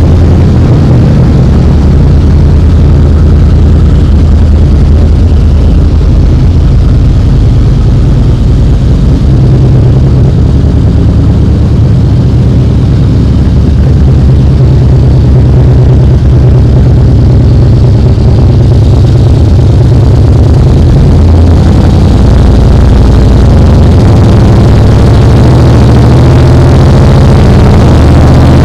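2007 Harley-Davidson Night Train's fuel-injected 96-inch Twin Cam V-twin running at idle through a Vance & Hines exhaust, just after being started. Its note shifts a few times.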